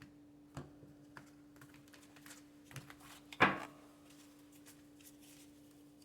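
Tarot cards being handled and laid on a table: scattered soft clicks and taps, with one louder slap about three and a half seconds in. A steady hum runs underneath.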